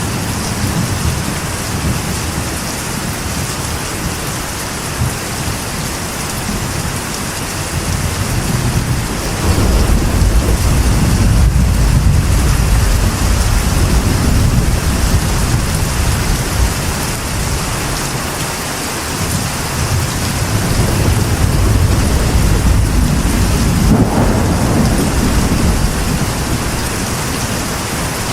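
Steady rain drumming on a metal roof, with rolling thunder that swells to a long low rumble about a third of the way in and again late on.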